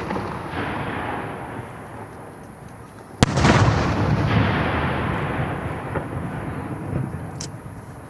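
Firework shell bursting with a sharp boom about three seconds in, followed by a long rolling echo that dies away slowly. The rumble of an earlier burst fades out at the start, and a faint crack comes near the end.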